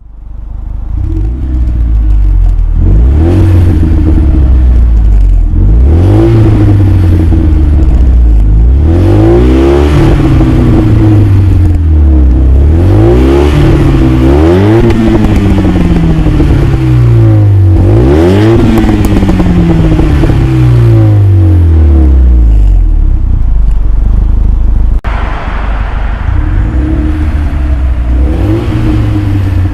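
Renault Mégane 2 RS 2.0-litre turbocharged four-cylinder, heard through a Milltek cat-back exhaust, revved about six times. Each rev climbs quickly and falls back to a steady idle.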